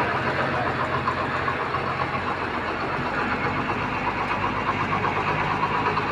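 Old Mitsubishi Fuso truck's diesel engine running steadily, with a small shift in its note partway through.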